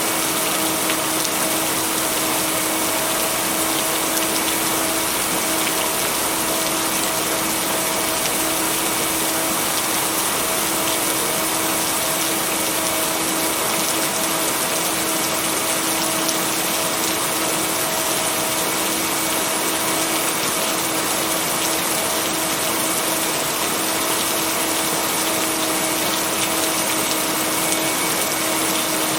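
Steady rain, an even unbroken hiss, with a constant low hum of steady tones underneath: the binaural-beat tone blended into the track.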